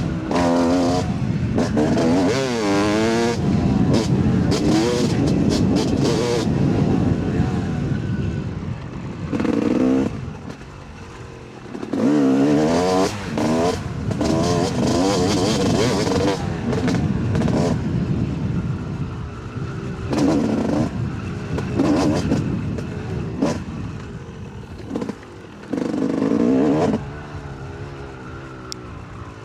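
Yamaha YZ 250 two-stroke dirt bike engine revving up and down as the throttle opens and closes over and over. It drops back off the throttle about ten seconds in and again near the end, with scattered short clicks over it.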